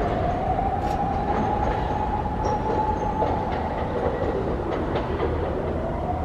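Hiroshima Electric Railway tram running at the stop, its motor whine rising in pitch, holding steady, then falling and rising again, over the rumble of wheels on the rails.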